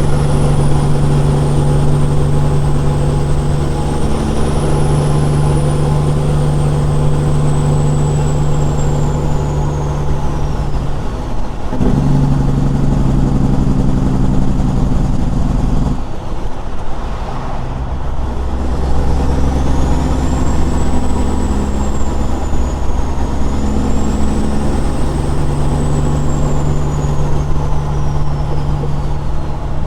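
A straight-piped Caterpillar 6NZ diesel semi truck running under way, loud and steady. Its engine note shifts about a third of the way in and dips briefly near the middle before building again, as it does through gear changes. A faint high whistle glides down and back up over the engine.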